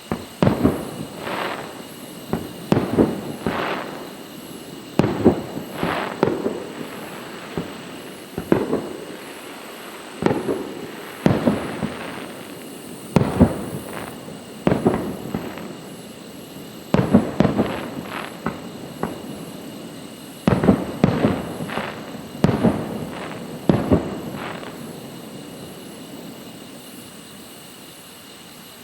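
Aerial fireworks shells bursting in quick clusters, dozens of sharp bangs each trailing into a rolling echo; the bangs stop about 24 seconds in and the echo fades out.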